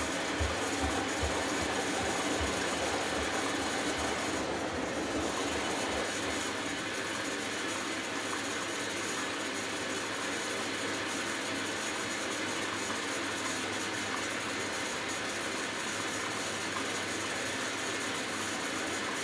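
Hoover Dynamic Next front-loading washing machine in its wash phase on the delicates cycle: the drum turns with water swishing inside and the motor running steadily. Low repeated thuds come through the first few seconds.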